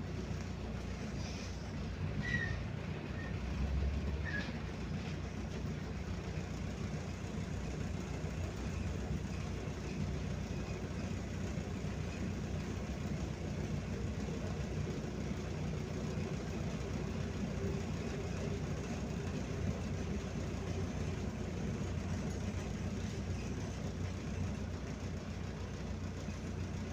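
Cabin of a MAZ-105 city bus on the move: steady low engine and road rumble. A few brief squeaks and a dull knock come a few seconds in.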